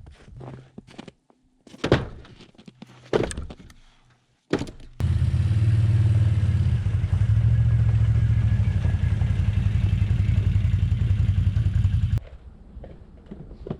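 A few knocks and clattering thuds, then a small engine running steadily at constant speed for about seven seconds before cutting off suddenly, typical of an ATV hauling a firewood trailer.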